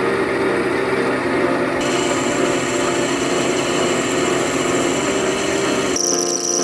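A handheld power tool's motor running steadily, with a dense whirring hum that shifts abruptly about 2 s in and again near the end.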